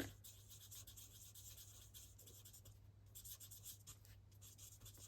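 Faint scratching of an alcohol-based blending marker scribbled over cardstock, shading a stamped seagull grey.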